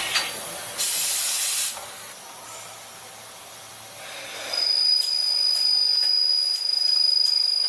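DN Solutions DNX 2100 CNC turn-mill machine at work: a short burst of hissing about a second in, then from about halfway a steady high-pitched whine over a hiss.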